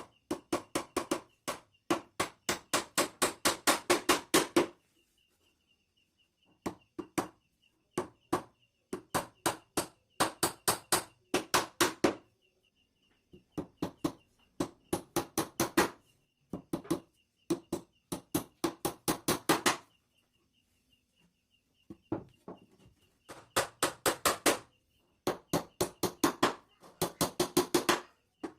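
A hammer striking in quick runs of about three to four blows a second, each run starting light and growing harder, about seven runs with short pauses between.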